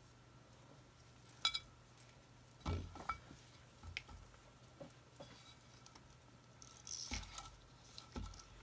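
Scattered handling noises from craft materials being worked by hand: a short ringing clink about one and a half seconds in, then a few soft knocks and a rustle.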